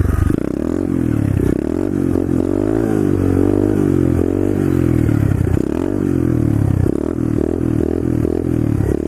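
SSR pit bike's small single-cylinder engine revving up and down over and over as the throttle is worked for wheelies. Its pitch swings slowly at first, then in quicker, shorter blips about every half second near the end.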